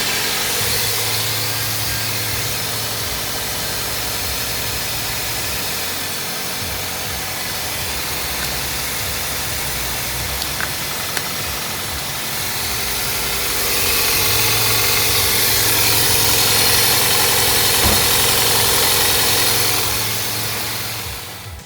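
Toyota Corolla engine idling steadily, with a dense whirring hiss over it. It gets louder about two-thirds of the way through and eases off near the end.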